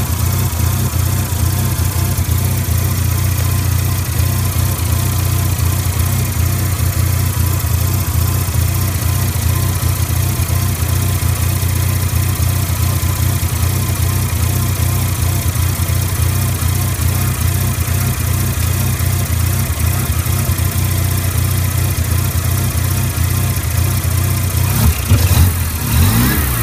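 A 1993 Mazda RX-7's 13B-REW twin-rotor rotary engine idling steadily, revving briefly near the end.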